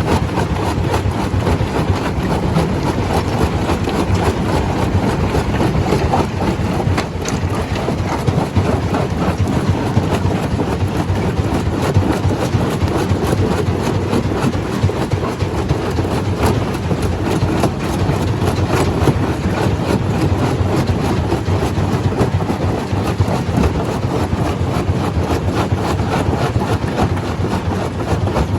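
Stone crusher running: a steady, loud heavy rumble with a constant rattle of many small knocks.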